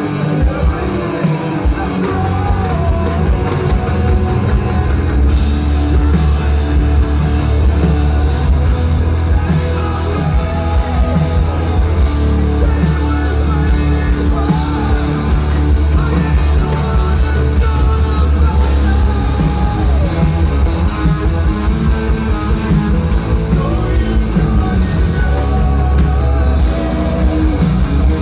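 Live hard rock music from a band on stage, with distorted electric guitars, heavy bass, drums and singing.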